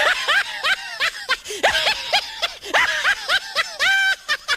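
High-pitched, squeaky chuckling and giggling in quick, short syllables that bend up and down in pitch.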